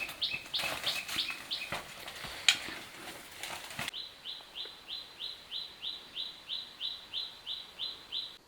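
A bird calling a rapid series of short, high, downward-slurred notes, about three a second, mixed with a few clicks at first; about four seconds in the sound cuts to a cleaner, evenly spaced run of the same kind of notes that stops abruptly near the end.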